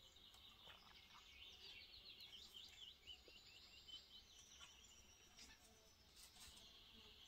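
Faint songbird singing: a quick run of short, high chirping notes a second or two in, then a few scattered chirps.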